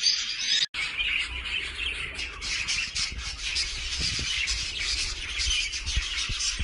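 Pet parrot chirping and squawking continuously, with a brief break less than a second in.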